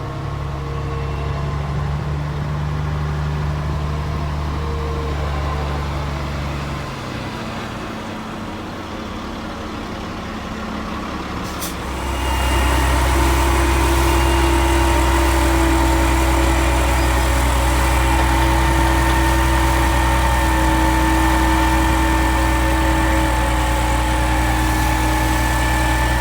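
Heavy diesel engines of silage-harvest machinery running steadily. Partway through, the first engine fades. About halfway in, a louder engine comes in, with a steady whine above it.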